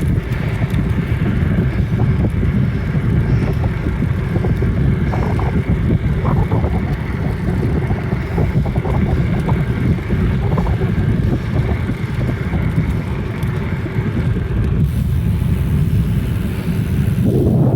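Wind buffeting the microphone of a phone carried on a moving bicycle, a steady low rumble.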